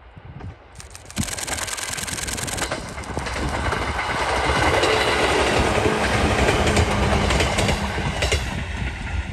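JR 205 series electric commuter train passing close by, its wheels clacking over rail joints. The sound builds to its loudest as the cars go past, with a few sharp wheel clicks near the end, then eases off slightly as the train moves away.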